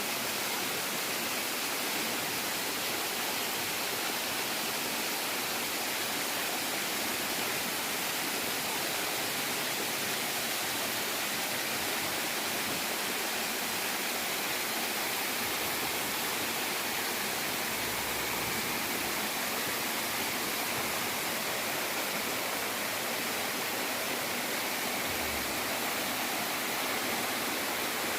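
Bigar waterfall: a steady, unbroken rush of falling water.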